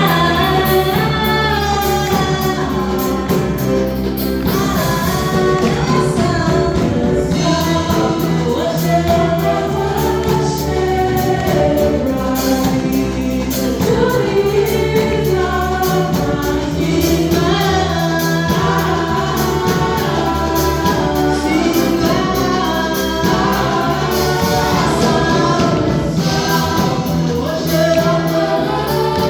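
Gospel worship song sung by a choir with backing instruments and a steady beat.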